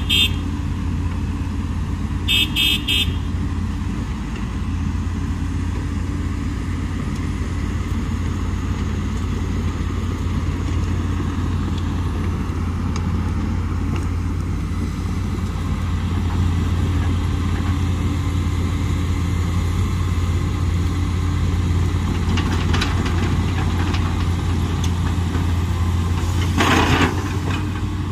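Komatsu PC200 excavator's diesel engine running steadily with a low hum. A short high beep sounds about two and a half seconds in, and a brief louder rush of noise comes near the end.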